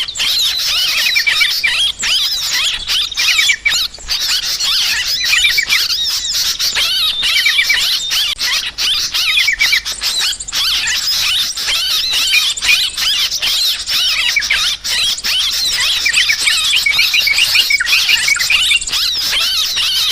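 A flock of yellow-vented bulbuls chattering in agitated alarm: many overlapping quick chirps and short rattling trills in a dense, unbroken chorus. The recording is used as a bird-trapping lure.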